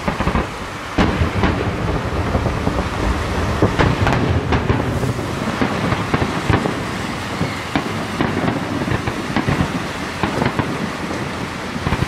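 Aerial firework shells bursting in quick succession: a dense, unbroken barrage of booms and bangs overlapping one another, with no pause.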